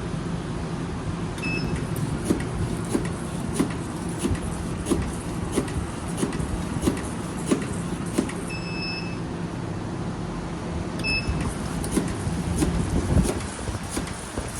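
Automatic Velcro tape rounded-corner cutting machine running, with a steady motor hum and a cutting stroke about every two-thirds of a second. Short electronic beeps sound three times, the middle one longer.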